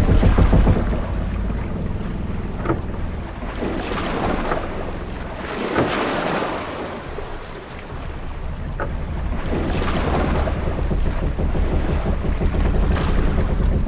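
Ship-at-sea ambience: wind and waves washing against the hull over a steady low rumble, with the water swelling up about halfway through. A few short creaks or knocks from the ship come through at irregular moments.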